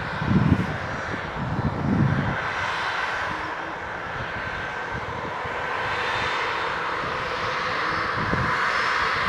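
Aircraft engine noise from a passing airplane, a steady roar that grows louder and brighter toward the end, with a few short low rumbles of wind buffeting the microphone.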